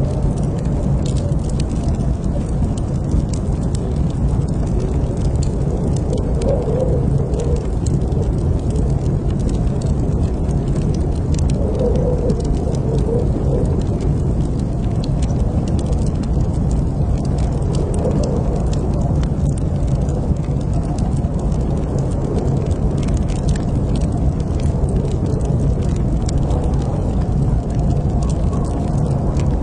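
Wood fire crackling in a fireplace: a steady low rumble of flames with frequent small, sharp pops and crackles.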